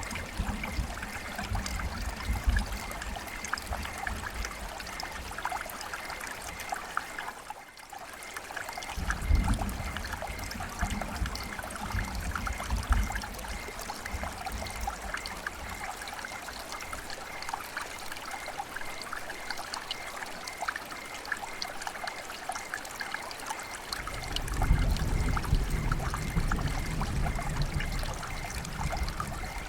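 River water flowing steadily over stones, a continuous trickling rush, with stretches of low rumble coming and going.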